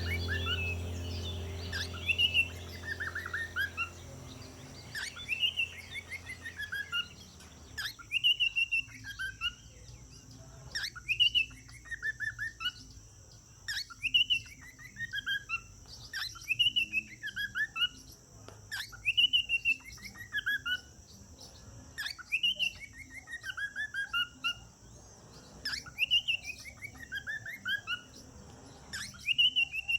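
Cockatiel singing the same whistled phrase over and over, about every three seconds, each phrase a quick run of chirps that steps down in pitch. A low background hum with musical tones fades out under it over the first several seconds.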